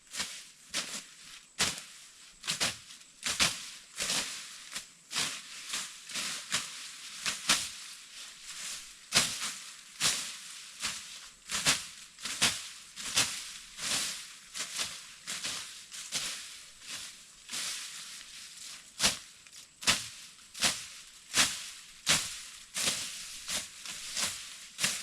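Dragon fruit stems being cut back with a hand tool during pruning: a long run of short, sharp cutting strokes, unevenly about one to two a second.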